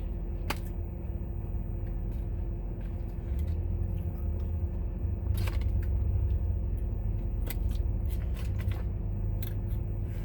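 Steady low rumble and hum, like an idling car heard from inside the cabin, swelling slightly a few seconds in. Scattered short clicks and crunches of food being handled and eaten run over it.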